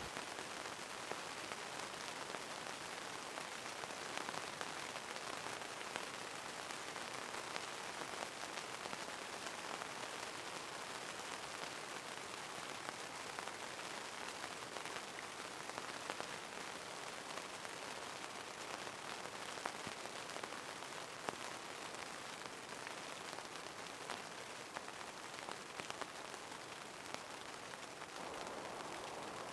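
Rain pattering steadily on tent fabric, a dense hiss scattered with many small drop ticks.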